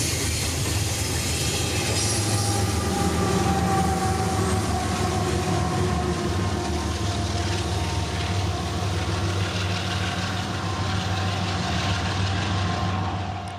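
Diesel-hauled double-stack container freight train passing and pulling away: a steady low rumble of engines and wheels on rail, with a tone that slowly falls in pitch as the train recedes. Thin high wheel squeals come in the first few seconds.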